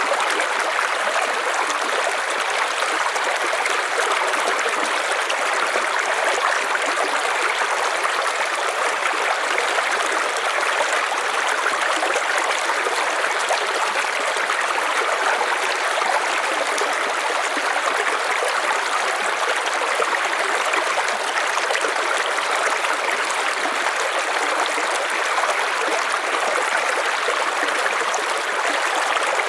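River water flowing and splashing over rocks in a steady, even rush.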